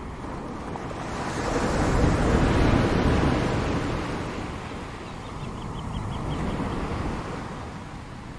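Ocean surf: a wave swells up, breaks and washes out over a few seconds, followed by a smaller wave later.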